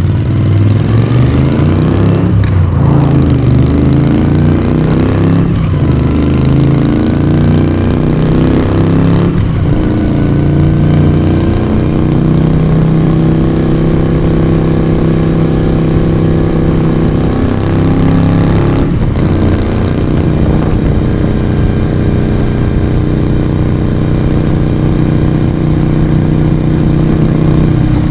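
Moto Guzzi V35's air-cooled V-twin pulling hard, its raw exhaust note rising in pitch and breaking off three times in the first ten seconds as it shifts up through the gears. It then settles into a steady cruise, with one more brief dip in pitch about two-thirds of the way through.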